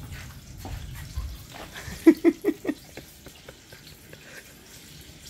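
Eggs and sausages sizzling in oil in frying pans on a gas stove. About two seconds in there is a short burst of laughter, four quick 'ha's.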